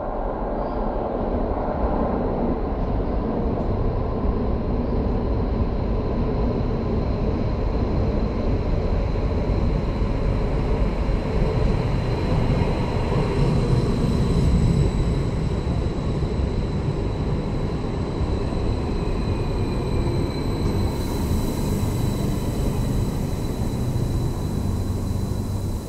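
NSB Stadler FLIRT electric multiple-unit train running into an underground station and slowing to a stop: a steady rumble of wheels on rail with a thin whine over it, loudest about halfway through. A hiss starts near the end as the train comes to rest.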